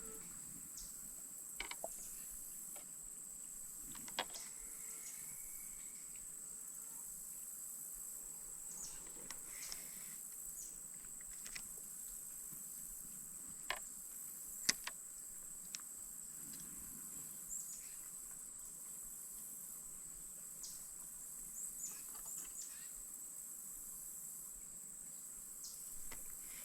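A steady, high insect chorus, with a few scattered light clicks and knocks.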